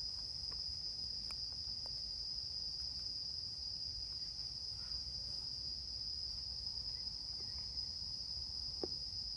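Insects trilling: one steady, unbroken high-pitched tone, with a few faint ticks.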